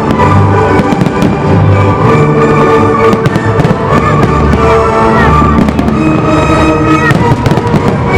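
Fireworks display: shells bursting and crackling in quick, irregular succession over loud music with sustained notes.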